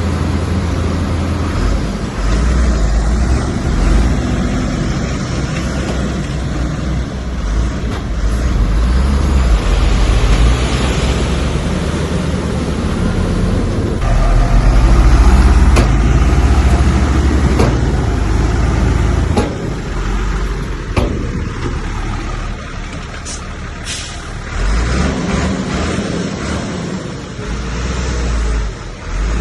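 Heavy earthmoving machine's diesel engine running with a deep rumble, louder around the middle, with a few sharp knocks in the second half.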